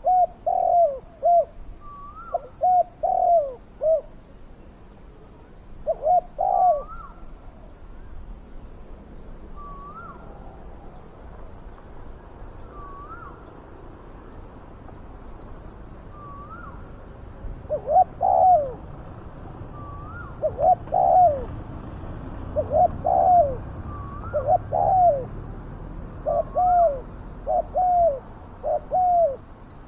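Spotted doves cooing: repeated phrases of low coo notes, with a pause of about ten seconds before they resume and come more often near the end. A short, higher rising note sounds every two or three seconds throughout.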